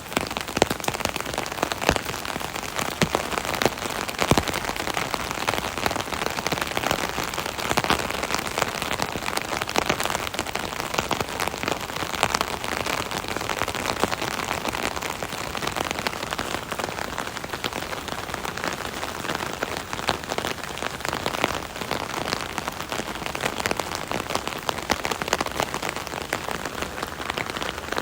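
Steady rain pattering on an umbrella canopy overhead: a dense, even patter of many separate drop hits.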